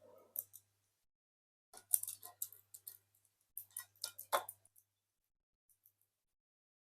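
Plastic Dennis the Menace woodpecker toy clicking and tapping on its pole in short runs of sharp light clicks, the main ones about two seconds in and again about four seconds in, then stopping.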